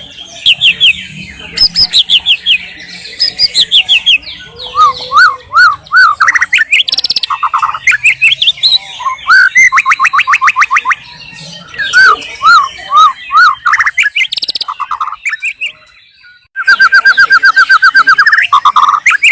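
White-rumped shama (murai batu) singing a loud, varied song of whistles, up-and-down notes and trills. After a short pause about 15 seconds in, it delivers a fast run of evenly repeated notes.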